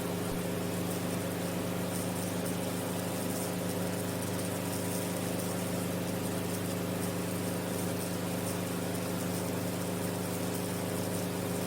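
Enstrom F28F helicopter in cruise flight: its piston engine and rotor make a steady, even drone that holds at one pitch throughout.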